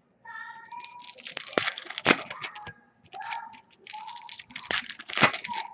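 A toddler screaming in short high-pitched bursts several times, over sharp crackles and crinkling of card-pack wrappers being torn open and handled, the loudest cracks about two seconds in and near the end.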